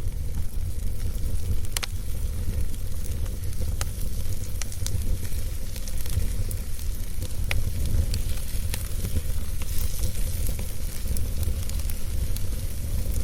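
Wood fire burning with a steady low rumble and hiss, and scattered sharp crackles and pops from the burning wood.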